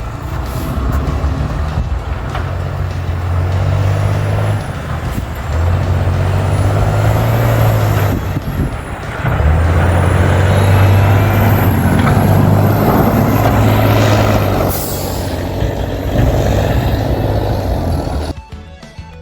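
A heavy vehicle's engine running close by, its low drone rising and dropping in steps, with a thin high whine gliding above. It cuts off suddenly near the end.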